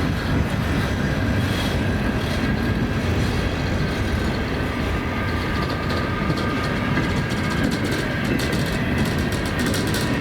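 Freight cars of a CSX manifest train rolling slowly by: a steady rumble of wheels on rail, with faint ringing tones and quick clicks of wheels over the rail joints toward the end.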